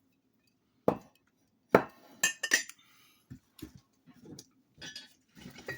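Ceramic Rae Dunn mugs being handled and set down on a hard surface: a sharp knock about a second in, a louder one just before two seconds, then a quick run of clinks and lighter knocks.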